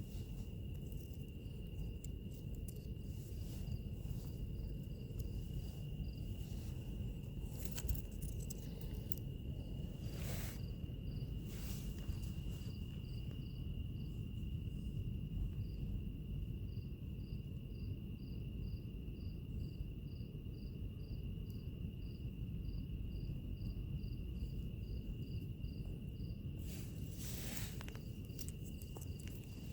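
Wood fire crackling with a few sharp pops over a steady low rumble of burning, while insects call: one holds a steady high trill and a cricket chirps in a regular pulse of about two chirps a second.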